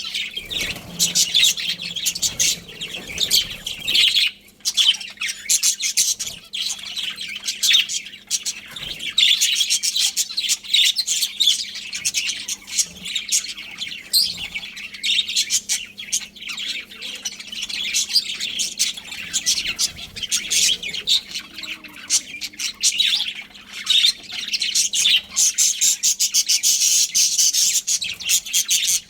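A colony of budgerigars chirping and chattering together: a dense, continuous stream of short, high chirps from many birds at once.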